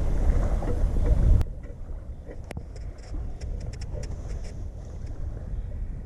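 Wind buffeting the microphone as a low rumble, cut off suddenly about a second and a half in. Then a quieter outdoor background with a few faint light clicks.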